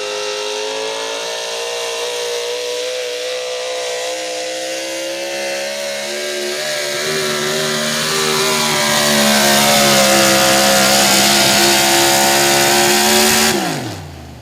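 Super stock pulling truck's engine running flat out under load down the pull track, its note holding high and getting louder. About a second before the end its pitch and volume drop sharply as the throttle is cut at the end of the pull.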